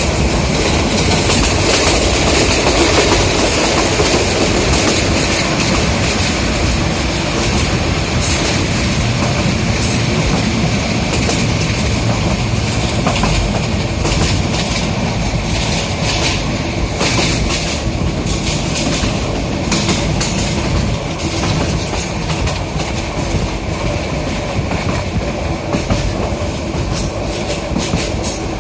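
Passenger train running along the track: a continuous rumble and rattle with sharp, irregular clacks of the wheels over the rails.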